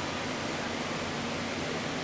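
Steady rushing noise inside a light-rail train car, even and unchanging throughout.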